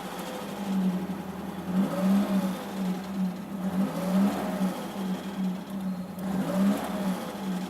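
VAZ classic (Lada) inline-four engine blipped from idle about every two seconds, each time revving up and falling back, with a knock that comes as the throttle is released. The owner cannot identify the knock: the timing chain is tensioned, the valves are adjusted, and it almost disappears once the engine reaches operating temperature.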